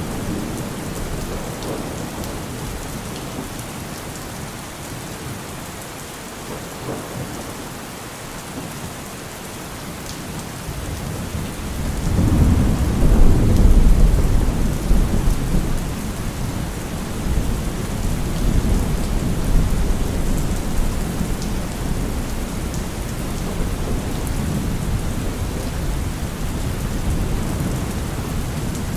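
Steady heavy rain with a roll of thunder: a deep rumble builds about twelve seconds in, peaks a couple of seconds later and keeps rolling under the rain.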